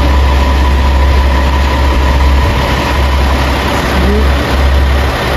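Loud, steady low rumble of a train at a railway station platform.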